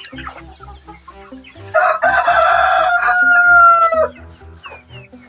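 A rooster crowing once: a loud call of about two seconds that ends on a long held note falling slightly in pitch.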